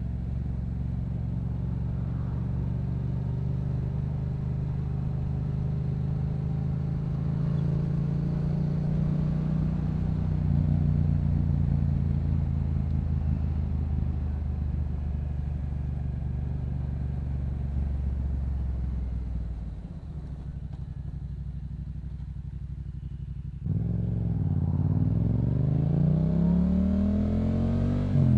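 Yamaha MT-07's parallel-twin engine through a Yoshimura aftermarket exhaust, running at a steady cruise. About twenty seconds in it goes quieter off the throttle, then a few seconds later it opens up suddenly with the revs climbing, and drops briefly near the end.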